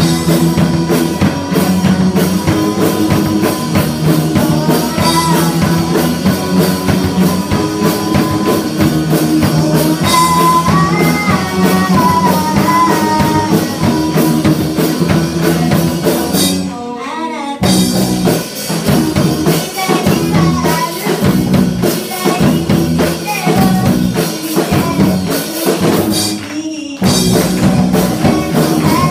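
Rock band playing live: drum kit, electric guitars and bass with a lead vocal singing. The band cuts out briefly twice, about halfway through and near the end, before coming back in.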